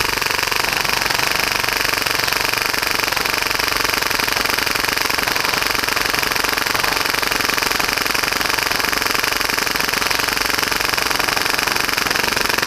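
HPA-powered full-auto Tokyo Marui Hi-Capa airsoft pistol, set for about 30 rounds a second, firing one long unbroken burst through a 300-round high-capacity magazine. The burst starts abruptly and stays steady throughout.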